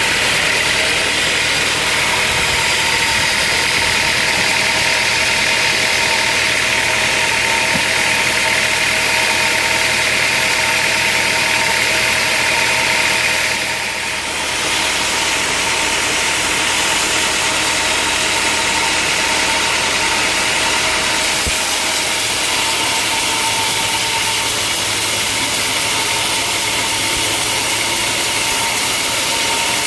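Sawmill machinery running steadily: an engine-like drone with a steady whine over it. The sound dips briefly about halfway through and changes slightly about two-thirds of the way in.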